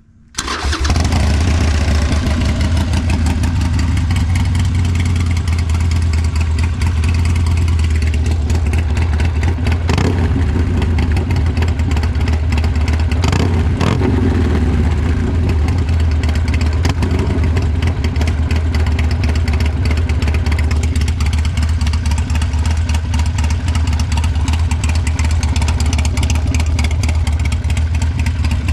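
Harley-Davidson Sportster Forty-Eight's air-cooled V-twin starting up through a Two Brothers Racing (TBR) aftermarket exhaust, catching at once and then running steadily and loud at idle, with brief changes in the note about ten and fourteen seconds in.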